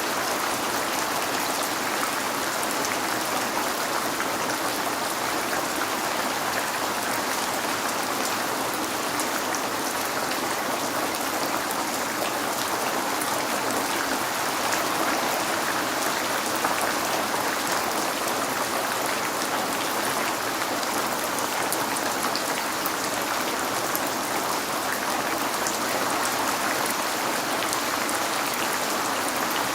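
Steady rain falling on a window, an even, dense patter with fine drop ticks and no let-up.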